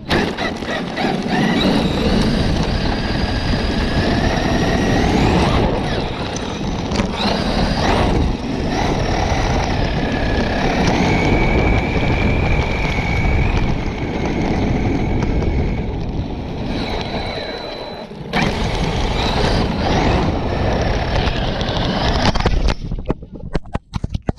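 Electric Traxxas RC car driving hard over rough ground, heard up close: a loud rush of wheels and wind under a motor whine that rises and falls with the throttle. It cuts out near the end, with a few sharp clicks.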